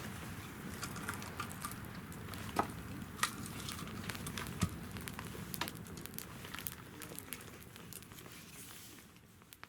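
Wood fire burning in a fire-pit stand, crackling steadily with scattered sharp pops over a low rumble of flame. The sound fades out near the end.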